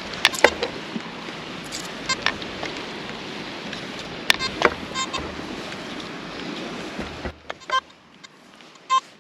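Nokta Makro Simplex metal detector chattering as its coil sweeps salty beach sand: short, broken beeps from ground falsing caused by the salt, with one louder beep near the end. Wind and surf noise sits under it and drops away suddenly about seven seconds in.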